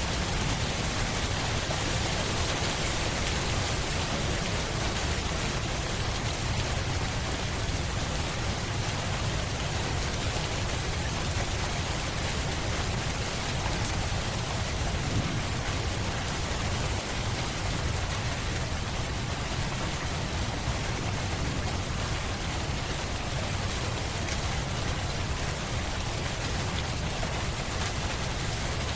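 Steady rainfall, an even hiss of rain on a surface with a deep low rumble underneath.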